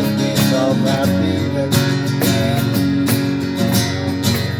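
Live acoustic band playing: acoustic guitar strumming chords with regular cajon beats.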